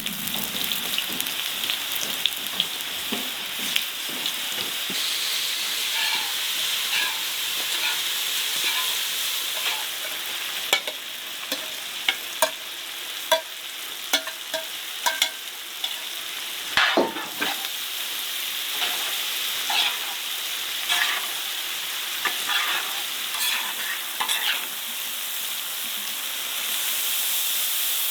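Food frying in a hot pan, a steady sizzle with many short sharp clicks and taps scattered through it.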